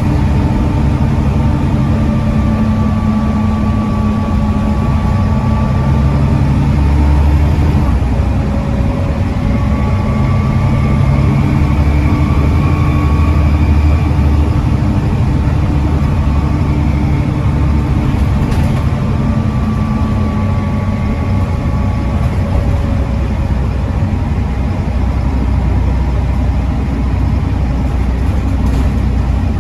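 Volvo D7C 7.3-litre diesel engine of a Volvo B7TL double-decker bus running under way with its ZF Ecomat automatic gearbox, the engine note rising and falling with road speed and a faint whine coming and going around the middle.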